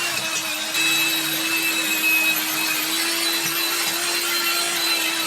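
Power tool running at a steady motor pitch, with harsh, gritty noise as it abrades metal pocket-bike parts during grinding or blasting.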